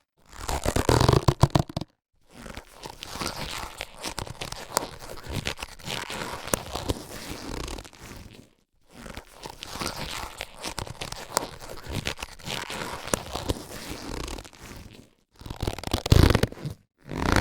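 Latex surgical gloves being handled and stretched: rubbery crinkling with many small sharp snaps and clicks. It comes in several passages broken by brief silences, louder at the start and again near the end.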